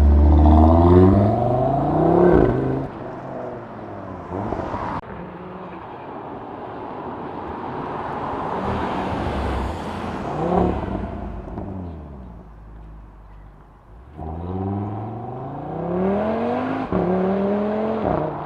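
2016 Audi S3's turbocharged four-cylinder engine through a Milltek sports exhaust, accelerating hard with the pitch rising and a gear change about two and a half seconds in. It then runs quieter at cruise, and pulls hard again from about fourteen seconds in, with another shift near the end.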